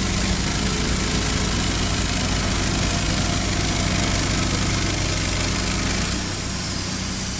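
Portable band sawmill engine running steadily, a little quieter from about six seconds in.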